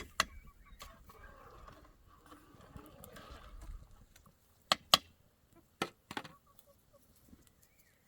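A few sharp knocks or clicks at irregular intervals, two close together about five seconds in, with faint rustling between them.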